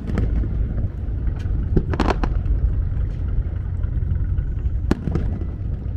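Fireworks shells bursting, a few sharp bangs with short crackling tails roughly every two to three seconds, over a steady low rumble.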